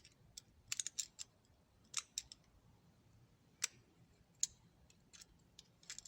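Light, irregular metallic clicks and taps of a Craftsman thumbwheel ratchet's small internal parts being handled and fitted back into the ratchet head during reassembly.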